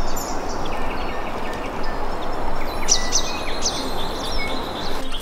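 Small birds chirping and whistling, with a few short held notes, mostly in the second half, over a steady rushing noise.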